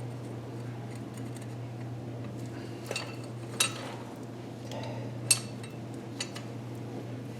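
Metal hand tools clinking as they are handled, with a few sharp metallic clinks, the loudest about three and a half and five seconds in, over a steady low hum.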